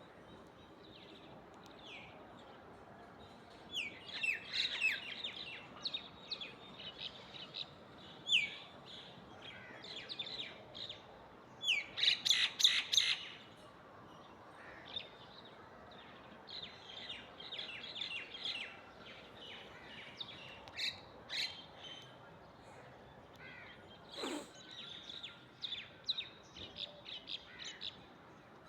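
Myna and other birds chirping: many short chirps and whistles, with a loud run of quick repeated calls about twelve seconds in.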